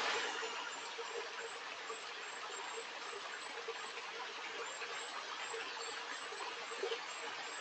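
Stream running: a steady rush of flowing water, a little louder for the first moment.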